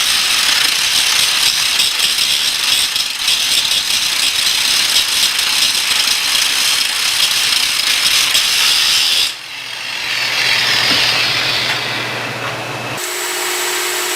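Cutting torch blowing a steel bearing off a jackshaft, a loud steady rushing hiss. About nine seconds in it changes to a quieter hiss with a low hum, and near the end a different steady hum takes over.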